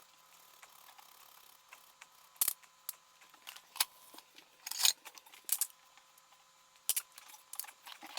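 A few sharp clicks and knocks from handling kitchen tools while preparing a roasted beet for juicing, about half a dozen spread over several seconds against a quiet background.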